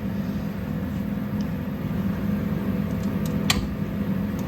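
Steady mechanical hum, like a running fan, with a single sharp click about three and a half seconds in.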